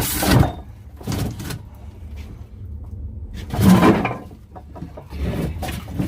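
Heavy old well pressure tank being wrestled out of a tight spot, scraping and knocking in four separate bursts.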